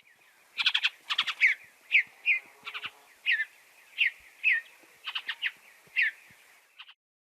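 Bluebird calling: a string of short, clear notes that slide downward, about one every half second, mixed with quick chattering clusters of notes.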